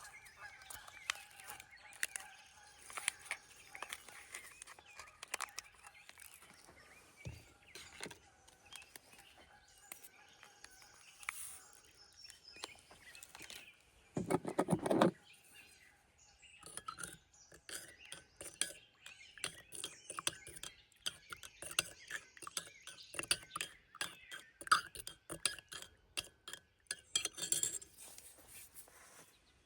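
Light clinks and clatters of utensils and camp dishes being handled, with a louder rasping burst lasting about a second roughly halfway through.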